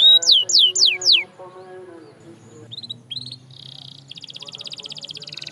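Canary singing. A run of loud whistled notes, each falling in pitch, lasts about a second, then come a few short chirps, and from about three and a half seconds in a fast, rapidly repeated trill.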